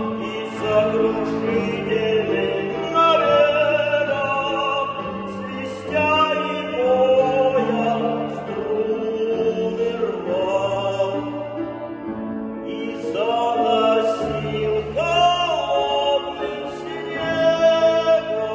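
A male classical singer singing a Russian romance in an operatic style, with grand piano accompaniment. The voice holds long notes with a wide vibrato.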